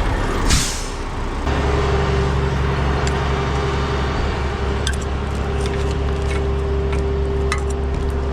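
A diesel engine running steadily, coming in about a second and a half in after a brief loud rush of noise, with scattered light clicks and knocks over it in the second half.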